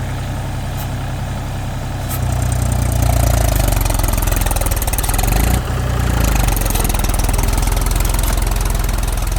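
Mahindra 275 DI TU tractor's three-cylinder diesel engine running steadily, growing louder about two seconds in, dipping briefly past the middle and picking up again.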